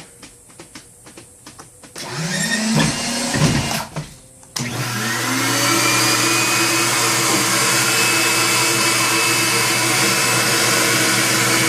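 A vacuum motor starts about two seconds in, runs briefly with a rising pitch and cuts out. It starts again near five seconds, spins up and runs steadily with a whine. The vacuum is drawing a heated, drooping plastic sheet down over a candy mold to form it.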